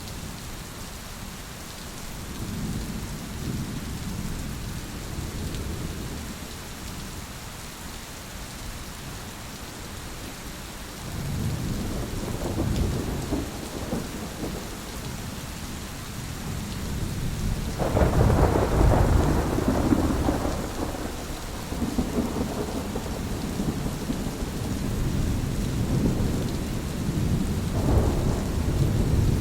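Thunderstorm: steady rain with thunder rolling repeatedly. The loudest peal breaks sharply about two-thirds of the way through and rumbles for several seconds, with smaller rolls before and after it.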